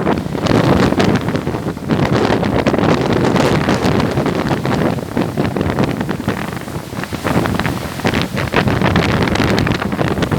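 Wind buffeting the microphone in loud gusts, a low rushing noise that swells and dips unevenly.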